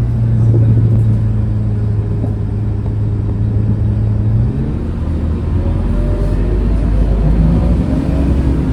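Scania K230UB city bus's engine running under way with a steady drone. About halfway through, the drone drops to a lower, deeper pitch.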